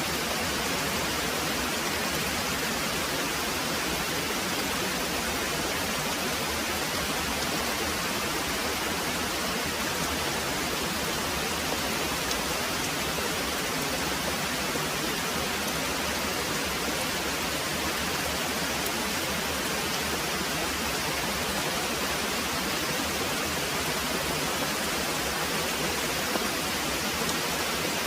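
Very heavy rain pouring steadily as an even, unbroken hiss.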